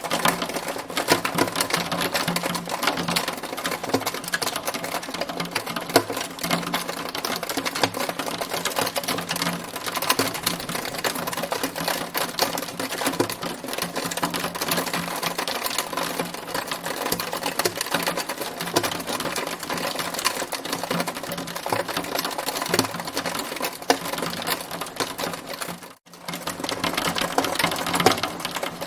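Hailstones pelting a hard surface in a dense, continuous rattle of rapid small impacts. It cuts out for an instant near the end.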